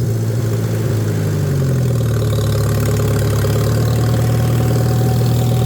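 Tractor engine running steadily, its pitch easing down slightly about a second and a half in and then holding.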